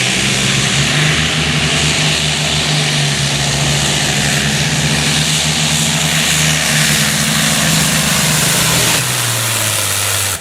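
Competition pulling tractor's engines running loud and steady at high revs, with the pitch dropping as they ease off about nine seconds in.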